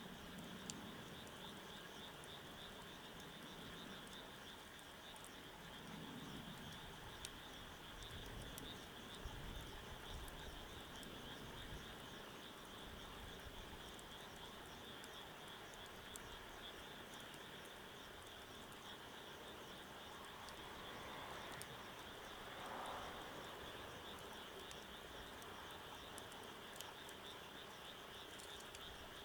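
Faint, steady chorus of frogs calling, with scattered small crackles and pops of a wood fire on top.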